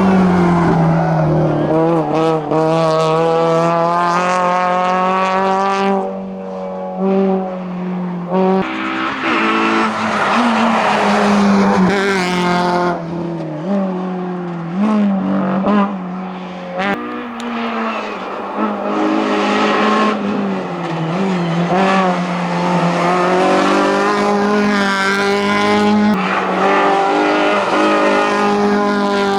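Hillclimb race car's engine driven flat out, its pitch repeatedly climbing and dropping back through gear changes and lifts for corners, with a brief drop in loudness several times.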